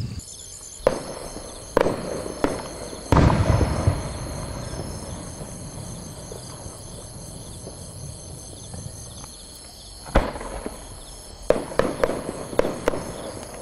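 Aerial firework shells bursting: a few sharp bangs less than a second apart near the start, the loudest about three seconds in with a long rolling echo. Another bang comes around ten seconds in, then a quick run of smaller pops near the end.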